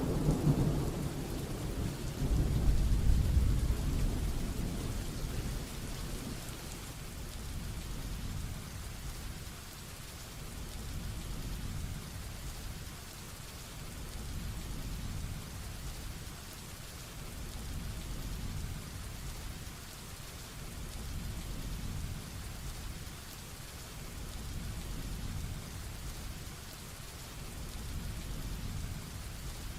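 Heavy rain falling steadily with a hiss, under rolling thunder. A loud thunder rumble at the start swells again about two seconds in and fades out over the next few seconds, leaving softer low rumbling swells every few seconds.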